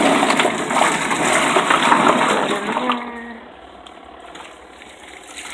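Water running and splashing, which drops away about three seconds in, leaving a quieter hiss.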